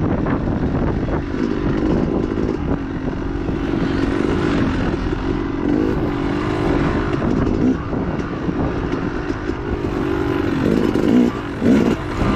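Dirt bike engine running hard under constantly changing throttle, its pitch wavering up and down, with a rough noisy rush underneath.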